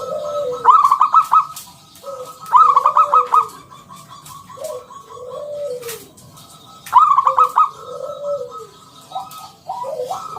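Zebra dove (perkutut) cooing: three loud, rapid trilled phrases, with softer, lower slurred coos in between.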